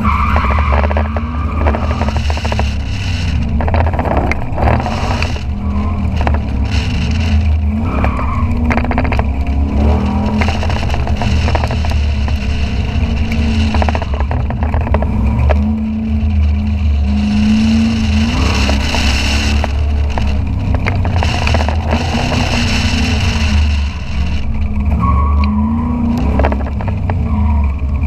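A C2 Corvette's V8 engine revving up and falling back again and again as the car accelerates and brakes between the cones of an autocross course. It is heard from a camera mounted on the outside of the car, with a heavy rush of wind and road noise.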